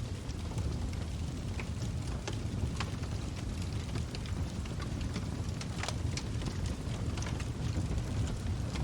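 Log fire burning in a fireplace: a steady low rumble of the flames with irregular sharp crackles and pops from the burning wood, several a second at times.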